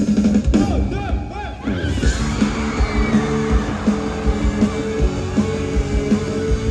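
Live rock band playing, with electric guitar, bass and drums. Gliding guitar pitches sound about half a second to two seconds in, then the full band comes back in.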